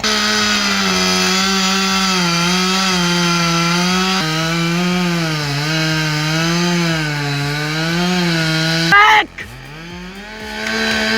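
Two-stroke chainsaw cutting into a tree trunk, its engine pitch wavering up and down as the bar loads in the wood. About nine seconds in there is a short loud burst, after which the saw's speed drops sharply and revs back up.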